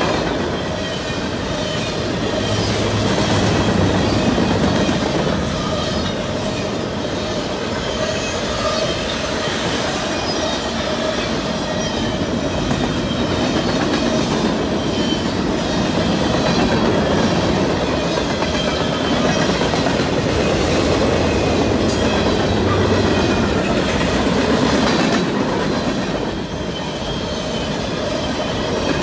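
Freight cars rolling past at speed: the steady rumble and clatter of steel wheels on the rails, with thin high tones ringing over it.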